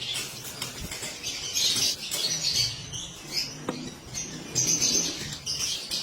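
Lovebirds chattering: repeated bursts of high, squeaky chirps.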